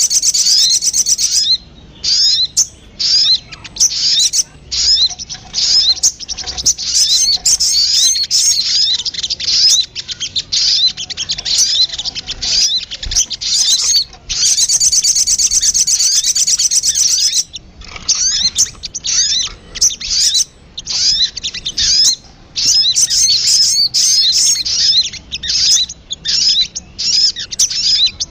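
Sogon (a sunbird) singing in a lure recording: rapid, high, thin chirps and twittering trills in runs broken by short pauses, with two longer unbroken trills near the start and about halfway through.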